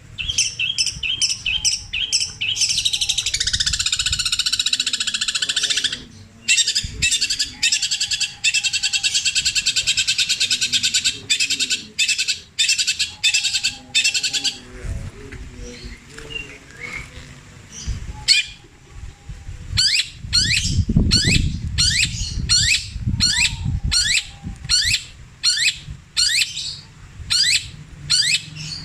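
Long-tailed shrike (cendet) singing a mimicked medley: quick repeated high notes, then long dense rattling trills, and after a pause a run of about a dozen sharp down-slurred calls, roughly one and a half a second. Its song is built from copied calls of other birds, including the Javan kingfisher (tengkek buto).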